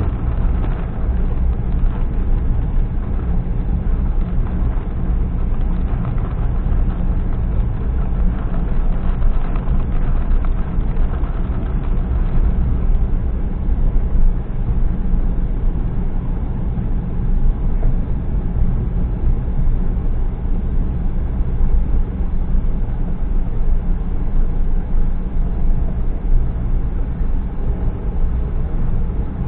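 A car on the move: steady, loud low road and engine noise with no clear single events.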